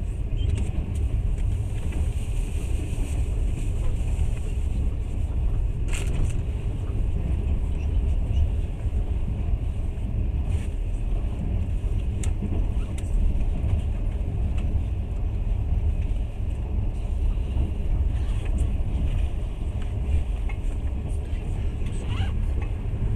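Passenger train running, heard from inside the carriage: a steady low rumble of wheels on track, with a few sharp clicks, the loudest about six seconds in.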